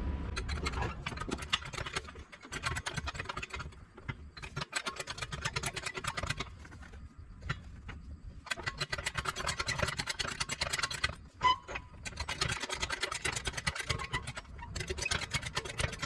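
A jack being set up and raised under the car to brace the exhaust: several stretches of rapid clicking and rattling, each lasting a couple of seconds, with short pauses between them.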